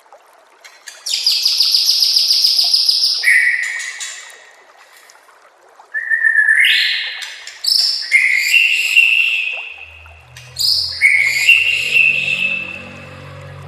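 White-rumped shama (murai batu) singing: a fast, buzzy trill about a second in, then a series of loud whistled phrases, one every couple of seconds. A faint low hum joins near the end.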